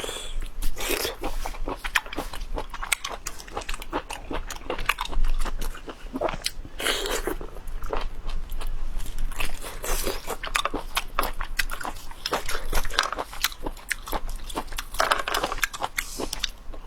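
Close-miked chewing and biting of raw geoduck clam: many small, sharp, wet clicks and crunches in an uneven run, with a few softer swells of mouth noise.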